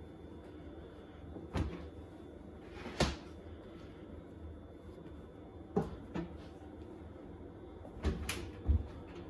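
A washing machine being loaded with laundry: a handful of separate knocks and thumps, several seconds apart, as things bump against the drum and door.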